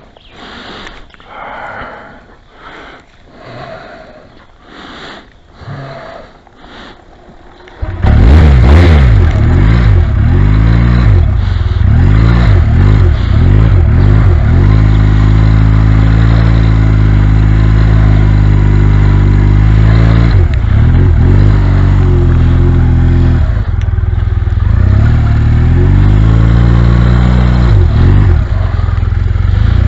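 Motorcycle roll-started in second gear on a flat battery: after several seconds of quieter rhythmic noise, the engine catches suddenly about eight seconds in and keeps running loudly, revved up and down a few times.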